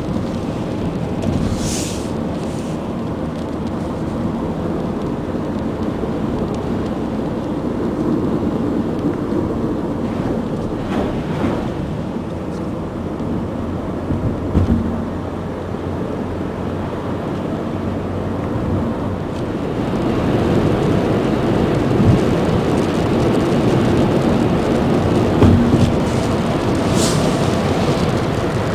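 Thunderstorm rain and wind making a steady rushing noise, with a few brief sharper sounds; it grows louder about two-thirds of the way through.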